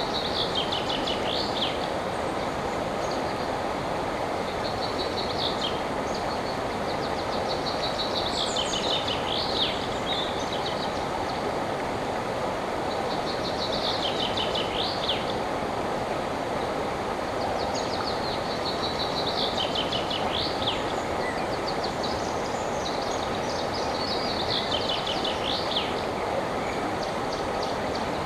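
A river flowing with a steady rush of water. Over it, a songbird sings short trilled phrases about every five seconds, each lasting a second or two.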